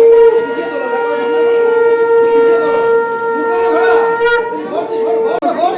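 Conch shell (shankha) blown in one long, steady, loud note, typical of a Hindu ritual. It breaks off briefly near the end and then starts again. Faint chatter runs beneath it.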